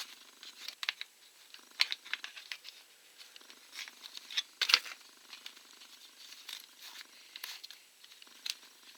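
Scattered light clicks and knocks of hands working a dismantled chainsaw's oil pump and its oil tube loose from the plastic housing, with sharper taps about two seconds in, midway and near the end.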